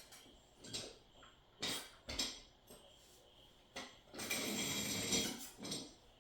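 Handling noise from unboxing: several separate knocks and clicks of hard objects being set down and moved, then about a second and a half of continuous scraping and rustling near the end.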